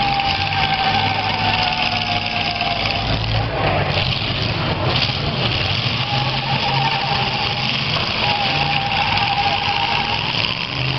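Several demolition derby cars' engines running and revving together as the cars push and manoeuvre against each other, with a high whining tone that comes in twice and a few brief knocks near the middle.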